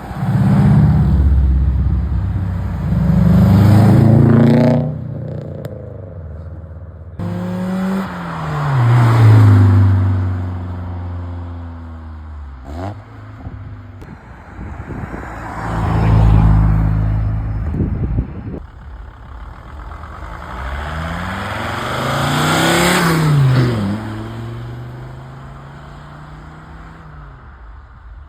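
Tuned cars accelerating hard one after another, each engine revving up through the gears and dropping in pitch as it passes and pulls away. There are four or five loud passes, with a sudden cut about five seconds in.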